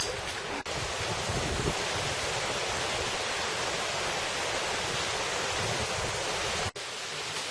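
Rushing water of a mountain valley stream, a steady hiss, broken by two brief dropouts about half a second in and near the end.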